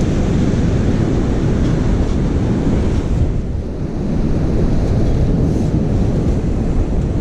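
Wind buffeting the microphone over the wash of beach surf: a steady, rumbling noise that eases briefly about four seconds in.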